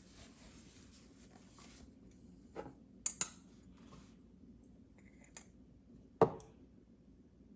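Kitchen preparation handling sounds: soft rustling for the first two seconds, then a few light clicks and knocks of utensils or containers, the loudest knock about six seconds in.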